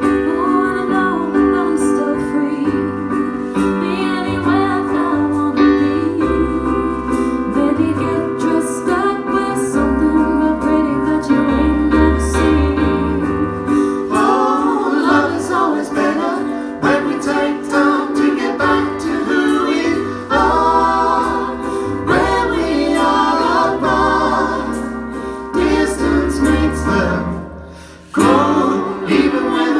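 Folk band playing a song with singing over the accompaniment. Near the end the music briefly thins and drops in level, then the full band comes straight back in.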